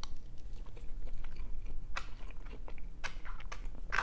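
Close-miked chewing of food, with scattered small wet mouth clicks and smacks.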